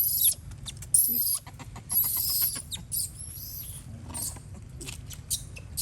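Macaques squealing: a run of shrill, high-pitched cries of about half a second each, four loud ones about a second apart, then fainter short squeaks.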